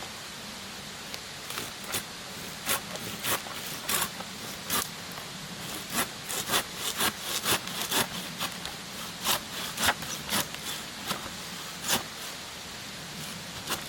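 Wood being cut or shaved by hand with a blade: a series of short, irregular rasping strokes, about two a second, over a steady background hiss.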